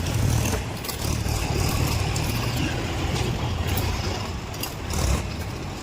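Heavy diesel machinery engine running steadily, with a few sharp knocks over it.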